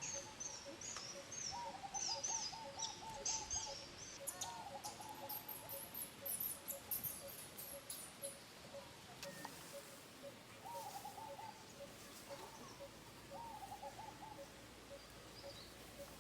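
Birds calling: short high chirps and several short trills, with a steady, evenly repeated low note running throughout.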